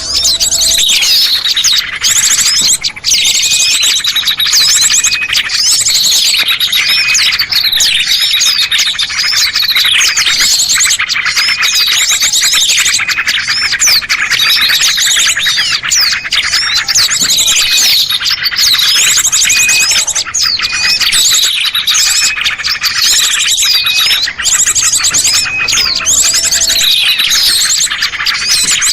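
Dense, unbroken chorus of small songbirds chirping and trilling, many calls overlapping at once: a recorded bird-lure (pikat) track used to attract small birds.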